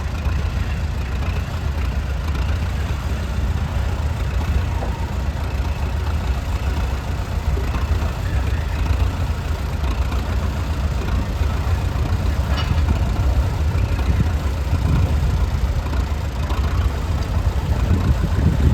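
Vintage tractor engine running steadily with a deep, continuous rumble.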